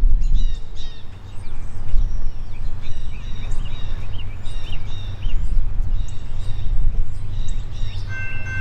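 Many small birds chirping over a steady low rumble. About eight seconds in, a locomotive air horn starts to sound, a chord of several steady notes held together.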